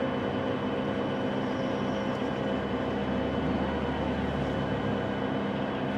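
A machine running at a steady speed, a constant hum of several held tones that does not rise or fall.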